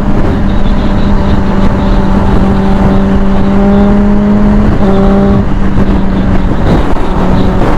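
Motorcycle engine running at a steady cruise, a constant drone under road and wind noise; its pitch steps down slightly about five seconds in.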